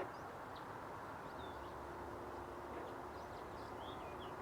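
Steady rush of flowing river water, with scattered short high bird chirps over it. A faint steady hum joins about a second and a half in.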